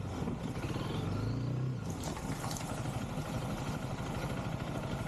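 Honda CRF300L single-cylinder dual-sport motorcycle engine revving, its pitch rising slightly for under two seconds, then dropping back to a rougher, lower running sound.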